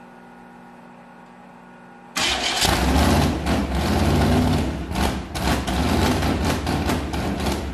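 Carbureted 355 small-block V8 with open long-tube headers firing up suddenly about two seconds in and running loud and unevenly, its level rising and falling.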